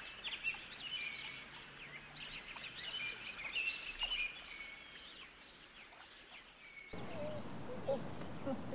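Birds chirping and singing, many short high calls overlapping above a faint outdoor background. About seven seconds in the background cuts suddenly to a louder, fuller noise.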